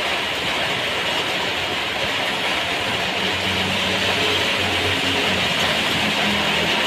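Heavy rain falling steadily in a constant hiss. About halfway through, a low steady hum joins it for a few seconds.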